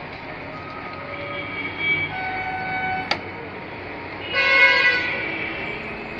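Several horn blasts, short pitched honks with the loudest and longest about four and a half seconds in, over steady background noise, with one sharp click just after three seconds.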